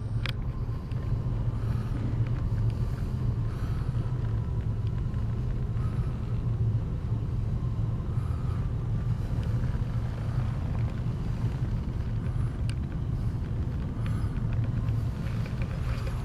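Steady low rumble of background noise, even in loudness throughout, with a few faint clicks.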